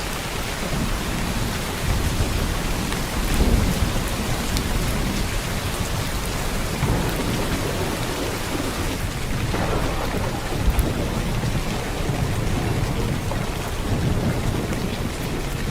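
Heavy downpour of rain, a steady dense hiss, with low rumbles swelling and fading every few seconds and one short low peak about eleven seconds in.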